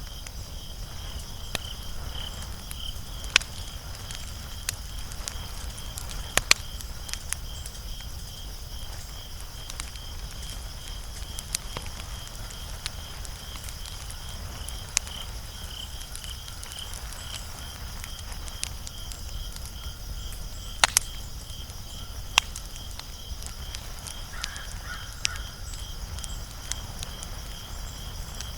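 Wood fire crackling: irregular sharp snaps and pops, a few louder, over a low rumble. Behind it runs a steady, high, evenly pulsing chirp.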